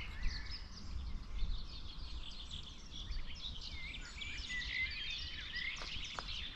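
Several small songbirds singing and chirping, a dense overlapping mix of quick high calls and trills that grows busier in the second half, over a steady low rumble.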